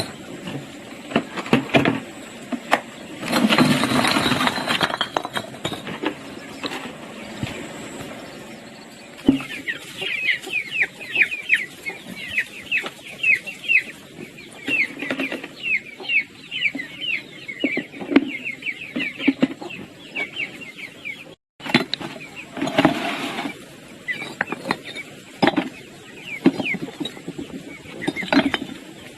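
Chickens clucking, with a long run of quick, high chirping calls through the middle. A louder burst of noise comes in the first few seconds.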